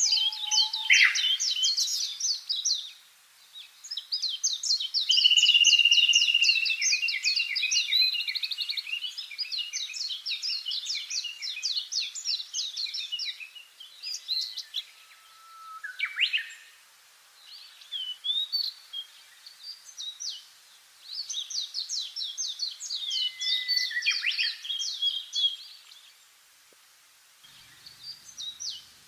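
Songbirds singing: phrases of rapid, repeated high notes lasting a few seconds each, with short pauses between them and a couple of lower sliding calls mixed in.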